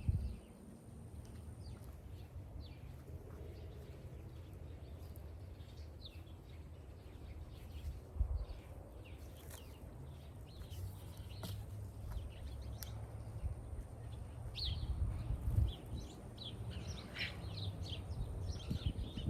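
Small birds chirping over and over, busiest near the end, over a steady low rumble, with a couple of dull thumps about eight and fifteen seconds in.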